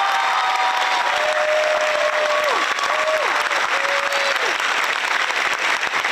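Audience applauding steadily for the honored students, with a few drawn-out cheers over the first four seconds that fall away at their ends.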